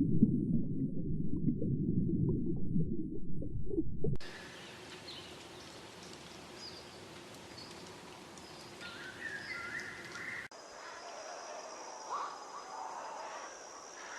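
Wildlife ambience edited from separate recordings. For about the first four seconds a loud low rumbling noise dominates. It cuts to a quieter hiss with scattered bird chirps, then to steady high insect-like tones with short bird calls.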